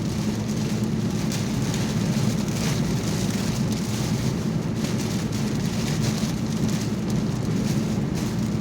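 Heavy rain hitting a car's roof and windshield, heard from inside the moving car, over a steady low road and engine rumble.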